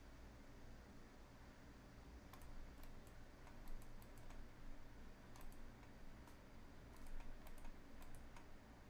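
Faint, irregular clicking of a computer mouse and keyboard, a dozen or so clicks starting about two seconds in, over a low steady room hum.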